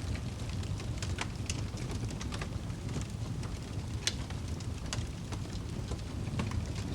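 Wood logs burning in a fireplace: a steady low rumble of flames with scattered crackles and pops, the sharpest pop about four seconds in.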